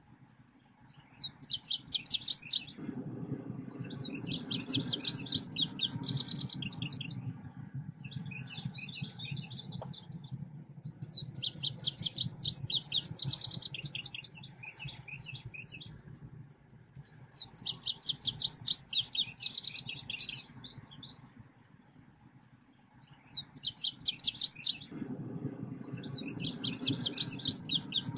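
Bird-keepers' masteran and lure recording of the 'selendang biru' songbird: bursts of rapid, high chirping notes a couple of seconds long, repeating about every three to four seconds, over a steady low hum that swells twice.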